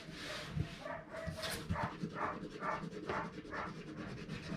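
A dog panting in even, short breaths, about two a second.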